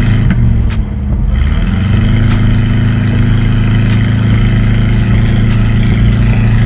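Chevrolet El Camino's 305 V8 pulling under load through its homemade exhaust. It dips briefly about a second in, then holds a steady drone. The engine is down on power, which the owner puts down to a carburetor that runs right only now and then.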